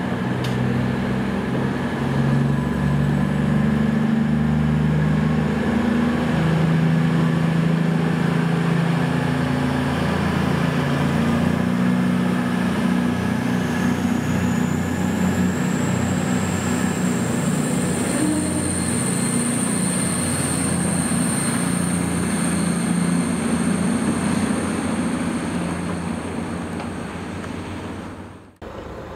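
A train running past on the railway: a steady low engine drone, with a thin high whine coming in about halfway through. The sound fades near the end and then cuts off suddenly.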